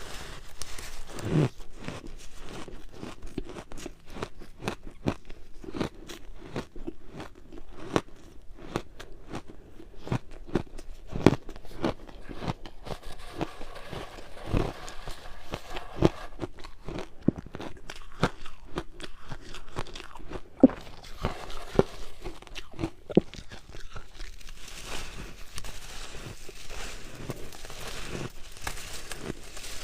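Ice being bitten and chewed close to the microphone: a continuous run of sharp crunches and cracks, with a few louder snaps.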